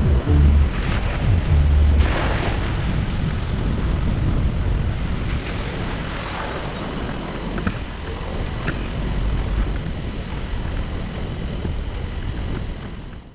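Steady rumbling road and wind noise from a vehicle on the move, with the tail of a music track's bass notes for the first two seconds or so. The sound cuts off suddenly at the end.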